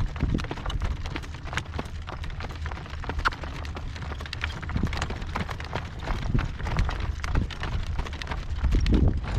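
Hoofbeats of a horse being driven in harness, a string of sharp clops, over a heavy rumble of wind buffeting the microphone.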